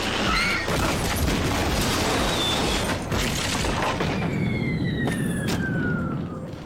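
Cartoon sound effects of a small plane crashing: a long, loud crash and explosion noise, with a falling whistle from about four seconds in.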